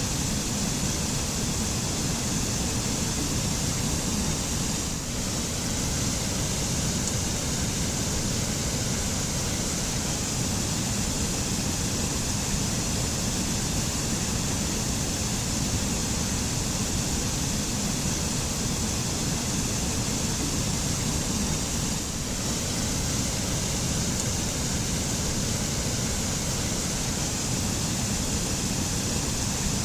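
Waterfall pouring steadily: a constant rush of water with a deep rumble and a high hiss.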